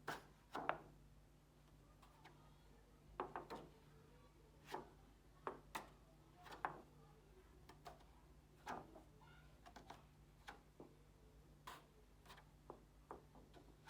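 Near silence broken by faint, irregular ticks and taps, about a dozen in all, from a picture card being flipped and handled, over a faint steady low hum.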